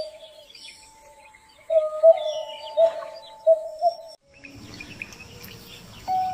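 Birds calling: a run of short, low calls, about two a second, with higher chirps over them, for the first four seconds. After that comes a faint hiss, and music begins at the very end.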